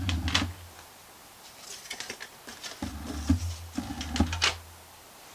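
Clicks, taps and scrapes of hands working inside an open laptop, with a low hum at the start and again for about a second and a half from about three seconds in.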